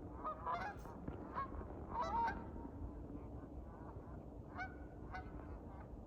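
Geese honking: a series of short, separate calls, some overlapping, with the loudest about two seconds in.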